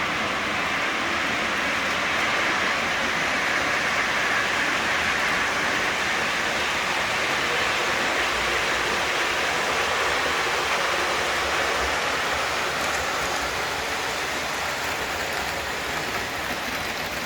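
Two RMT BEEP O-gauge model locomotives running at full throttle on 18 volts AC, pulling a train of tank cars: a steady rolling rumble of motors, gears and wheels on the track. It grows a little louder in the middle and eases slightly near the end.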